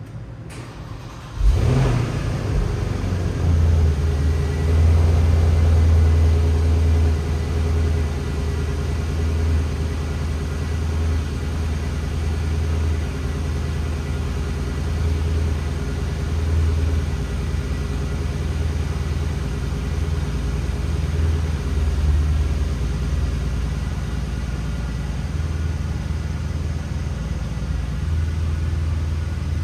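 A 2013 Porsche Panamera 4S's 4.8-litre V8 cold-started: the engine catches with a sharp flare about a second and a half in, then runs at a raised fast idle that settles to a steady lower idle after about ten seconds.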